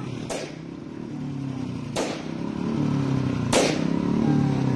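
Car engine running and building in loudness, as in a car accelerating. Sharp cracks come about every second and a half over the engine.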